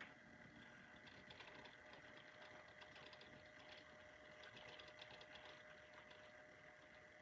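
Faint whirring of model train motors with light clicking of wheels over the track, steady throughout.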